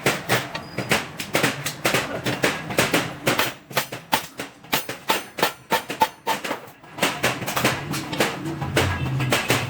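Hammer blows on stainless steel sheet, a fast, uneven run of sharp strikes with brief metallic ringing.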